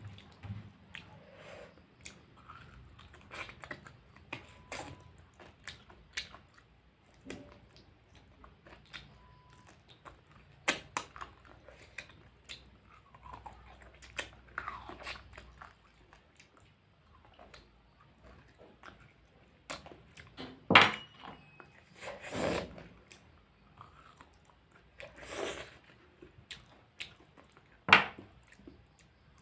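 A person chewing a pork curry meal close to the microphone: wet chewing and mouth noises with scattered crunches, and several louder, sharper crunches or clicks in the second half.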